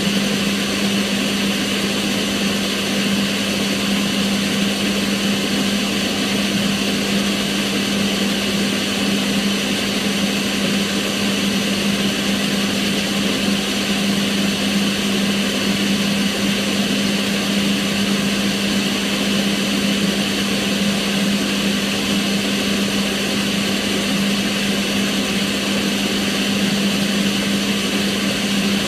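Kitchen range hood's extractor fan running steadily: an even rush of air over a constant motor hum.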